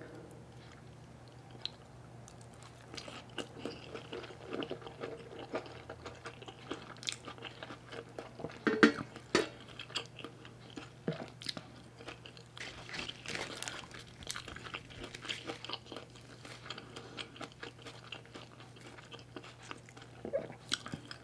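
Close-miked chewing with many irregular crunches and bites, the loudest crunch about nine seconds in: a person eating sticky rice with raw sweet pepper.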